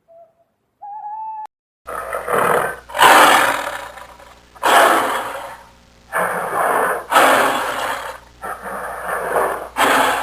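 An owl hooting twice, short and faint, then from about two seconds in a large animal calling over and over: loud, rough roar-like calls, each about a second long.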